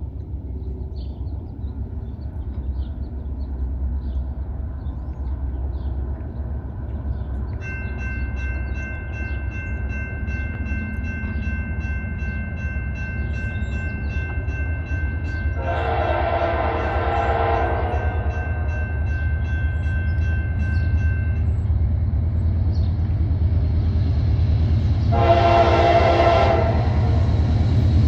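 Approaching train: the locomotive's engine rumble grows steadily louder, and the locomotive horn sounds two long blasts, the first about halfway through and the second near the end. A steady high ringing runs from about a quarter of the way in until just after the first blast.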